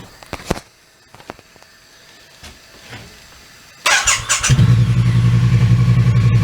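A few faint clicks, then about four seconds in a 2017 Triumph Street Cup's 900 cc parallel-twin engine cranks on the starter, catches within about half a second and settles into a steady, pulsing idle through its stock exhaust.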